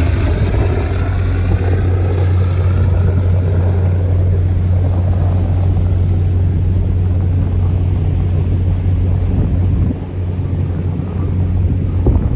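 River tourist boat's engine running steadily under way with a strong deep hum. Over the first three seconds a higher whine slides down in pitch and fades out. The level drops about ten seconds in, and there is a brief louder moment near the end.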